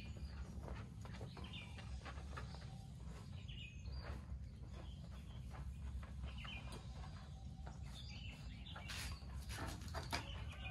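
Small birds chirping now and then over a steady low rumble, with scattered clicks and knocks and a cluster of sharper knocks near the end.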